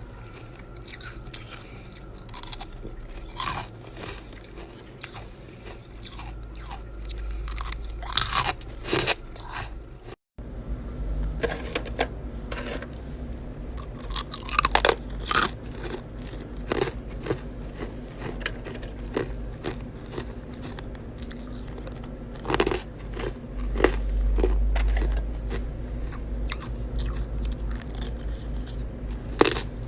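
Chest freezer frost-ice being bitten and chewed close to the microphone: irregular sharp crunches over a low rumble, with a brief dropout about ten seconds in.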